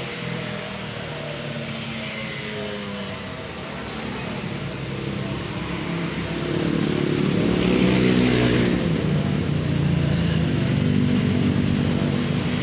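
Engines of motor vehicles running close by, a steady hum with one vehicle growing louder and passing about seven to nine seconds in.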